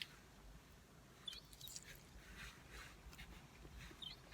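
Near silence: faint chewing of curly fries, with two short, faint high gull calls, about a second in and near the end.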